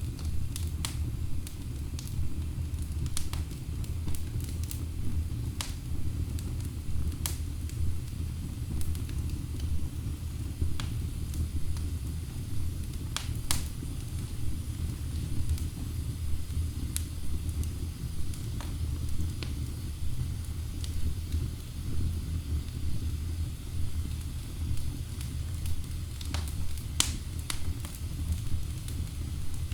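Wood logs burning in a fireplace: a steady low rumble of flame with scattered sharp crackles and pops, two louder pops about halfway through and near the end.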